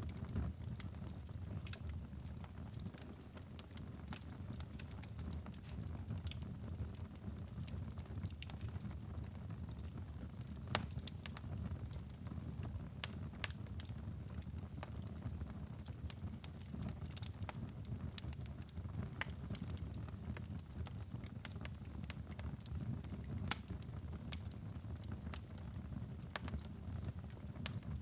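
Fire in a fireplace crackling, with frequent sharp irregular pops over a steady low rumble of burning flames.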